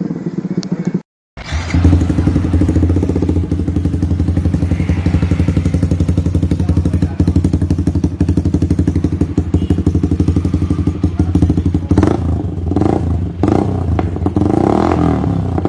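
Yamaha R15 V3's single-cylinder 155 cc engine, fitted with an aftermarket exhaust, idling steadily after a brief gap about a second in. Near the end come a few short throttle blips.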